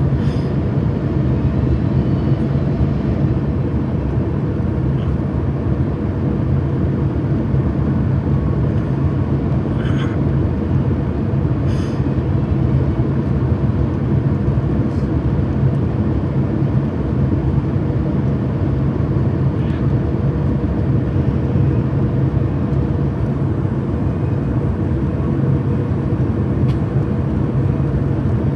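Steady low drone of an airliner's jet engines, unchanging throughout, with a few faint clicks about ten and twelve seconds in.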